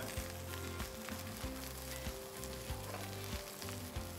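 Onions, curry leaves and ginger-garlic paste sizzling in hot oil in a wok, with a spatula stirring and scraping now and then, as the raw taste of the paste is cooked off.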